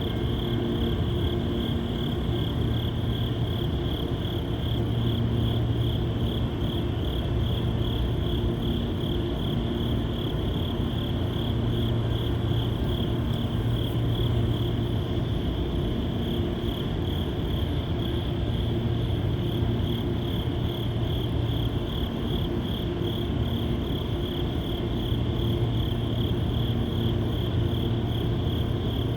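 Crickets chirping in a steady, fast-pulsing trill, over a low droning hum that swells and fades slightly.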